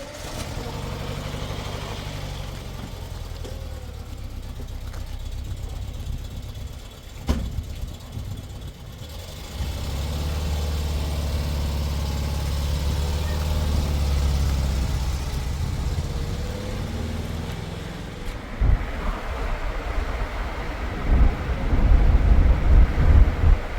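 A car engine running as the car drives, its pitch rising and falling as it speeds up and slows. Wind buffets the microphone in gusts from near the three-quarter mark on.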